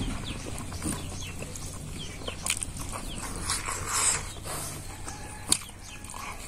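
Close-up eating sounds: chewing and lip smacks of someone eating rice by hand, with scattered short clicks. The sharpest click comes about five and a half seconds in.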